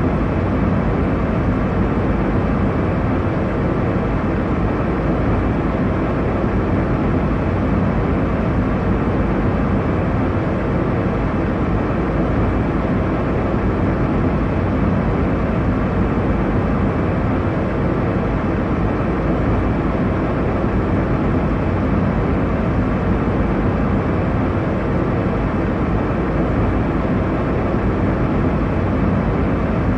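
Airliner cabin noise: a steady, even rush of engine and airflow noise that is heavy in the low end and dull in the highs.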